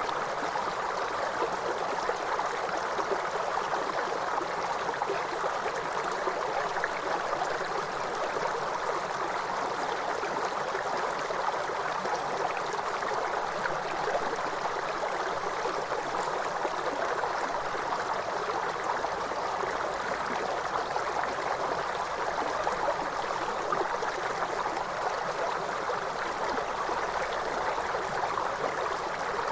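A waterfall's water rushing steadily, an even, unbroken noise centred in the middle range with no music or birdsong over it.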